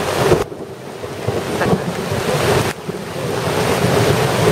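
Heavy rain pouring down in a downpour: a loud, steady rushing hiss, with wind buffeting the microphone. The rush drops away briefly about half a second in and again near three seconds.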